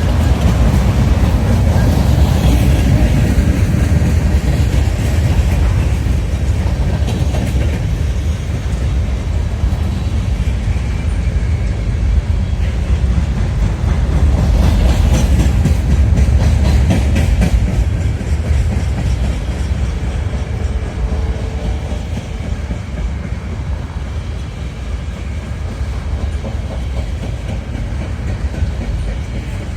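Freight train rolling past, its cars rumbling and the wheels clacking over the rail joints; the rumble eases off a little in the second half.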